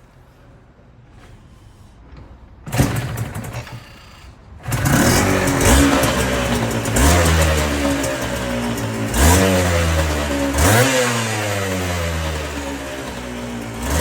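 Aprilia RS250's two-stroke V-twin with M MAX expansion chambers being started: a short burst about three seconds in, then it catches just before five seconds in and is blipped four times, the revs rising sharply and falling back to idle between blips.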